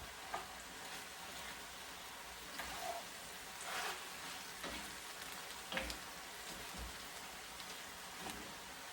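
Chicken, shiitake mushrooms and green onions frying in oil in a pan, a steady sizzle, with a few brief knocks or scrapes scattered through it.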